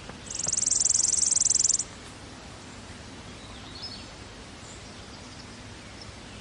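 A high-pitched, rapidly pulsing insect trill for about a second and a half near the start, then a steady outdoor background hiss with a faint chirp near the middle.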